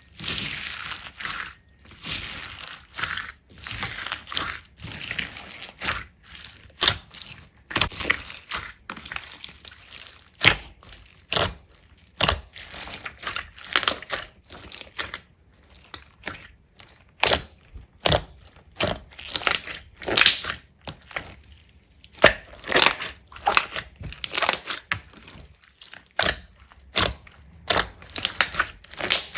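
Slime being squeezed and pressed by hand, giving irregular crackling, crunching sounds in quick clusters with short pauses between.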